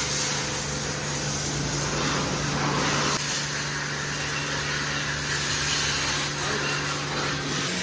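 Pressure washer running: a steady motor hum under a constant hiss of spray, the hum shifting slightly about three seconds in.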